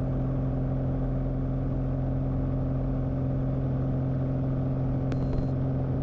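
Light aircraft's piston engine running steadily at takeoff power during the departure, a constant drone with no change in pitch. A brief faint click with a short high tone comes about five seconds in.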